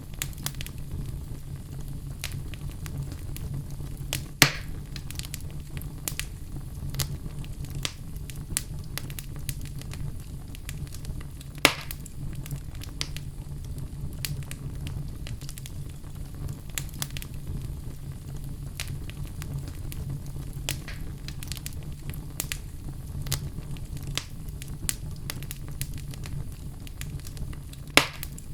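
Wood fire in a fireplace crackling, with a steady low rumble of the flames under scattered snaps and pops; three louder pops stand out, about four seconds in, about twelve seconds in, and near the end.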